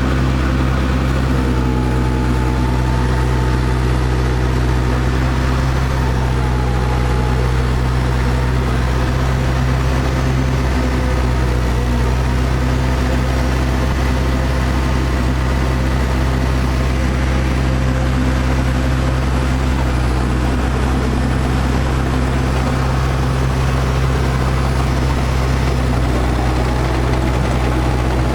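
International Harvester TD-7 Series C bulldozer's diesel engine idling steadily with its cooling fan running.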